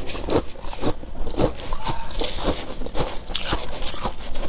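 Close-up crunching of freezer frost ice being bitten and chewed: a steady run of crisp crunches, about two a second.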